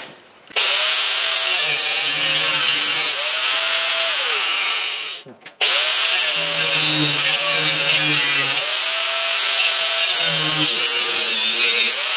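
Power tool with an abrasive cutoff wheel slicing through the end of an electric motor's copper stator windings, in two long cuts with a short stop about five seconds in. The wheel's whine dips and recovers as it bites.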